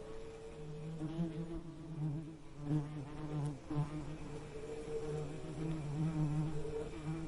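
Bees buzzing, several droning wing tones that waver in pitch and swell and fade as they move about.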